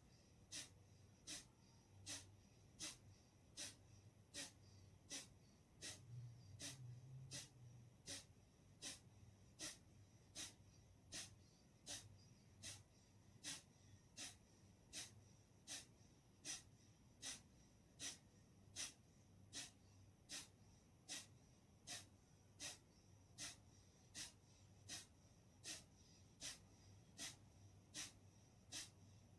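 Kapalbhati breathing: short, forceful exhalations puffed out through the nose at a steady rhythm, about four every three seconds, each a sharp sniff-like puff, with quiet passive inhalations between.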